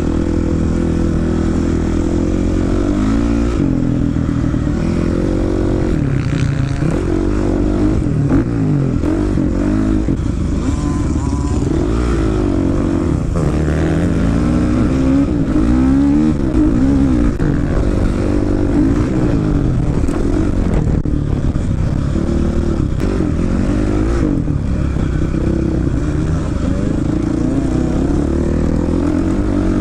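Dirt bike engine revving up and down over and over while being ridden, its pitch climbing and dropping with the throttle and gear changes.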